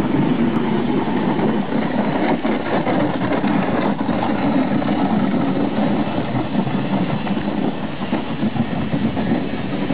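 A car engine running, heard as a loud, steady, rough rumble that carries on without a break.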